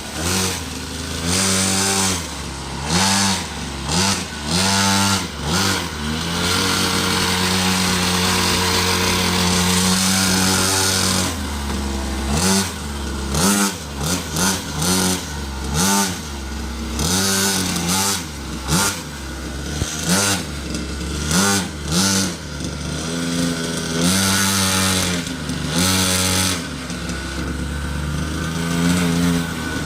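Dirt bike engine being revved in many short throttle blips, its pitch rising and dropping back each time, with one longer held rev about a quarter of the way in.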